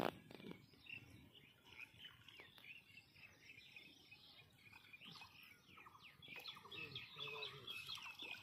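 Faint chirping of small birds over quiet open-air background noise, the chirps busiest in the last couple of seconds, with a single sharp knock right at the start.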